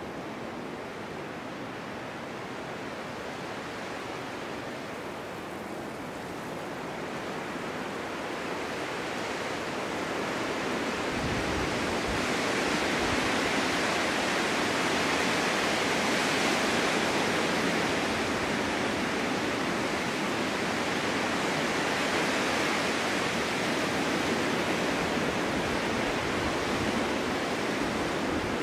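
Snowstorm wind blowing steadily, swelling into a stronger gust about halfway through and staying strong.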